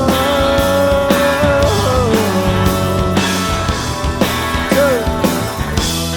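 Live rock band playing an instrumental passage: a held lead line that slides and bends in pitch over drums and cymbals. Near the end the drums stop and a chord is left ringing.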